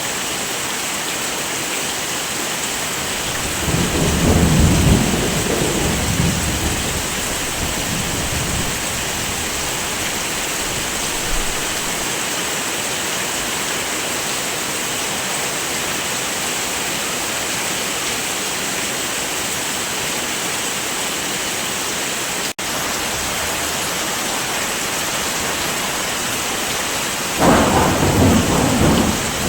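Heavy rain falling steadily, with a roll of thunder rumbling about four seconds in and another starting near the end. The sound drops out for an instant a little after two-thirds of the way through.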